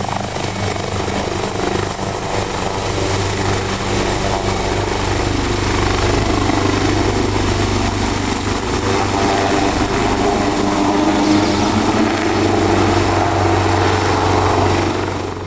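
Leonardo AW139 twin-turbine helicopter taking off, its rotors and turbines running loud and steady, with a thin steady high whine.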